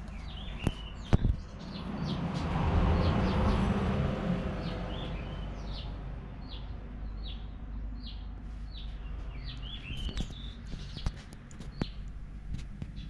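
Small birds chirping in short, quickly repeated calls over a low steady hum. A broad rush of noise swells and fades about two to five seconds in, and a few sharp clicks sound near the start and again around ten to twelve seconds.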